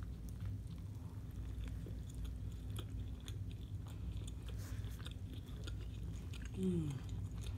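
Person chewing a mouthful of air-fried shrimp po' boy with the mouth closed, with scattered small wet mouth clicks and crunches. Near the end there is a short falling "mm" hum of enjoyment.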